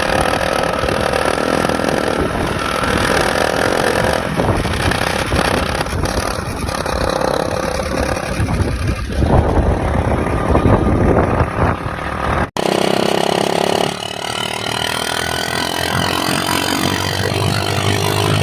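Hero HF Deluxe motorcycle engine running through its silencer with a drink can taped over the outlet, meant to give a deeper, KTM-like exhaust note. About twelve seconds in the sound breaks off and a second take begins, with the engine pitch rising as it is revved up.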